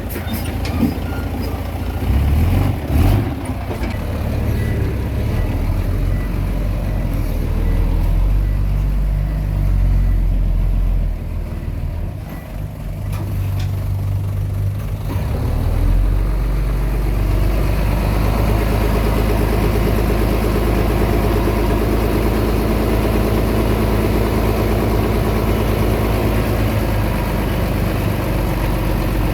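Komatsu D20P bulldozer's diesel engine running, with a few knocks in the first few seconds. About 16 seconds in, the engine note rises and then holds steady, as under load.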